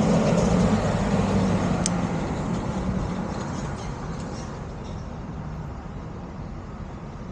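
Road traffic: a motor vehicle's engine hum fades away over the first few seconds over a steady road noise that grows quieter, with one short click about two seconds in.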